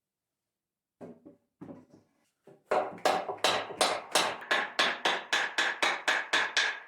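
Hand saw cutting wood. It starts with a few light strokes, then about three quick, even strokes a second, with a faint ringing from the blade.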